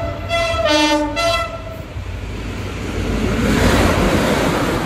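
Egyptian National Railways diesel locomotive sounding its multi-note horn in a blast that ends about two seconds in. The locomotive then passes close by with a rising rumble of engine and wheels on the rails, loudest near the end.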